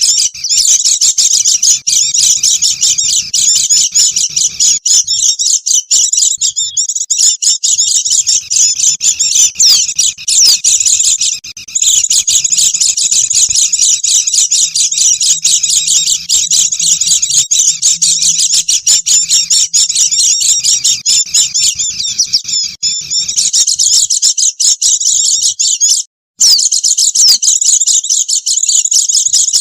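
A flock of pleci (white-eyes) chattering with many overlapping high, rapid chirps, played as a lure call for catching wild birds. The chatter breaks off for a moment about 26 seconds in.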